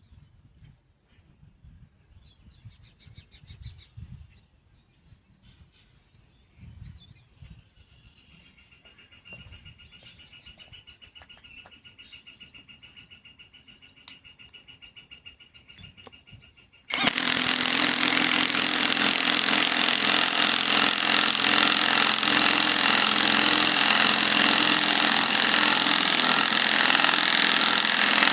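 Faint knocks and handling noises, then about 17 seconds in a cordless compact impact wrench starts suddenly and keeps up a loud, steady hammering as it drives a bolt.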